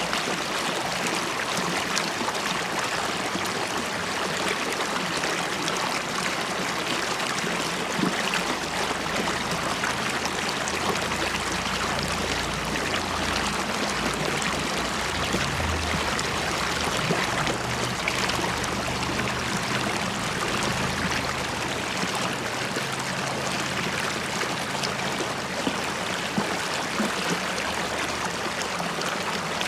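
River water flowing and bubbling in a steady, even rush. A faint low hum sits underneath through the middle stretch.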